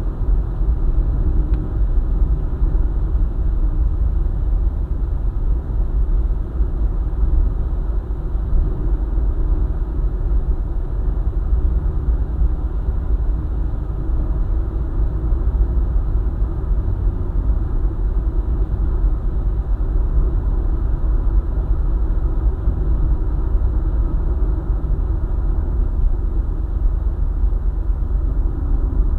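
Car driving steadily along a highway: a constant low rumble of road and engine noise.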